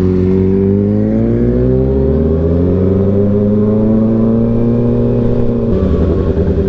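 Motorcycle engine heard from the rider's seat, pulling up through the revs for the first couple of seconds, then holding a near-steady pitch. Near the end the note drops a little and turns rougher, as if the throttle is eased off.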